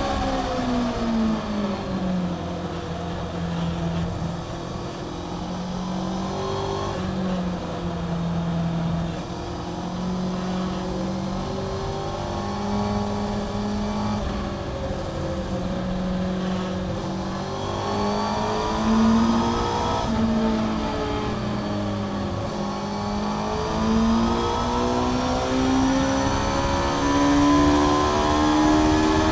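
Honda CBR600F's 600 cc inline-four, with an aftermarket Mivv exhaust, heard onboard at track speed. The revs drop over the first couple of seconds, hold lower through the middle with small rises and falls, then climb steadily through the last several seconds, over a steady rush of wind.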